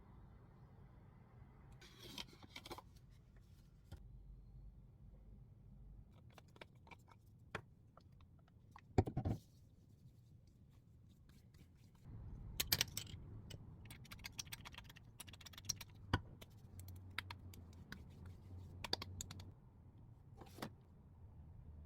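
Faint, scattered clicks and scrapes of small objects being handled, with a louder thump about nine seconds in and busier clicking in the second half.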